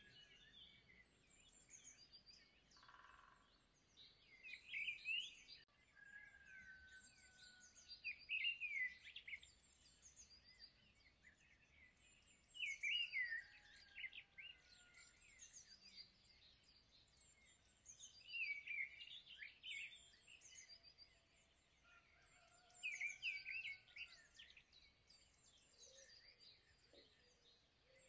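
Faint bird song: a short phrase of high chirps repeated every four to five seconds, with thin drawn-out whistles between phrases.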